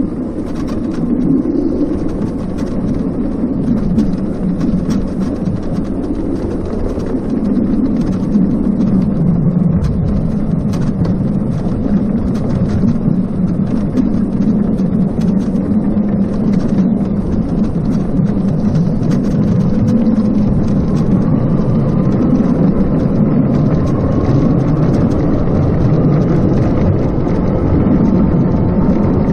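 Wind buffeting a chest-mounted action camera's microphone, with tyre noise from a RadMini electric bicycle being ridden: a steady, uneven rush. A faint whine joins in over the last third.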